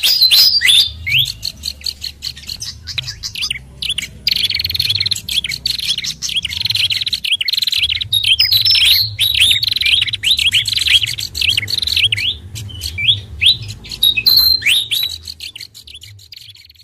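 Bird-lure recording of small songbirds: dense, overlapping chirps, quick trills and short sweeping whistles, mixing sikatan kipas (fantail), pelanduk bukit and prenjak kepala merah calls. A low hum runs underneath, and the track fades out near the end.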